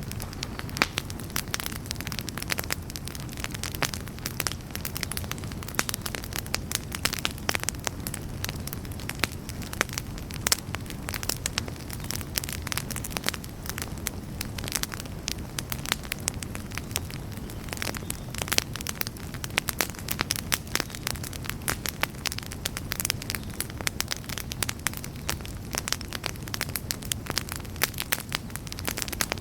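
Wood campfire burning, with dense irregular crackles and pops over a low steady rumble of the flames.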